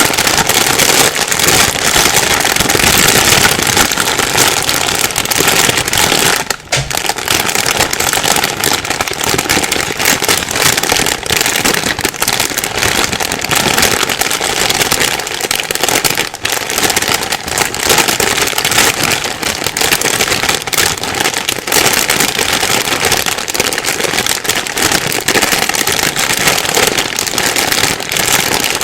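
Plastic bag being crumpled and rustled by hand without a break: a dense, loud crackle of crinkling film, with a brief lull about six seconds in.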